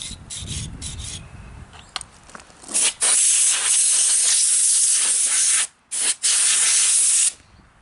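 Compressed-air blow gun blasting dirt off a dismantled air compressor: a loud steady hiss that starts about three seconds in, stops briefly near the end, then blows again and cuts off. Some handling knocks and rumble come before it.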